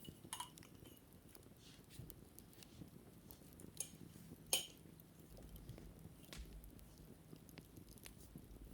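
Sparse, light clicks and taps, with one sharper tap about four and a half seconds in.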